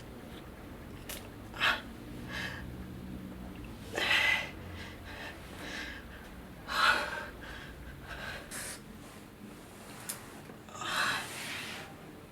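A person gasping and breathing hard, with four sharp breaths a few seconds apart.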